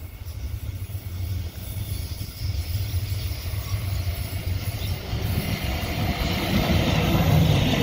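Alstom X'Trapolis 100 electric multiple unit approaching along the track. Its low rumble grows steadily louder as it nears, with a broader rushing running sound building up over the last few seconds.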